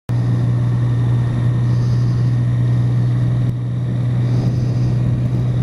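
Motorcycle engine running at steady revs through an Arrow aftermarket exhaust can, giving a loud, even drone. It starts abruptly, and the level dips slightly about three and a half seconds in.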